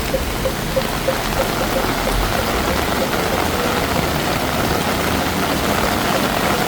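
Heavy rain pouring steadily onto a flooded street. A vehicle engine runs close by for the first two seconds, and a quick regular pip, about three or four a second, stops about a second in.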